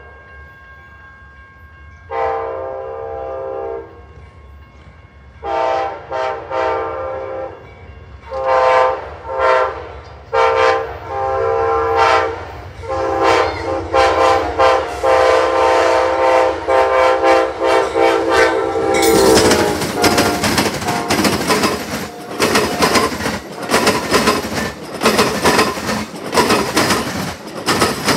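Amtrak passenger train's locomotive horn sounds a long blast, then a string of short toots, then a long held blast as the train nears. About two-thirds of the way in, the train passes close, with loud wheel and rail noise and the clickety-clack of the passenger cars over the track.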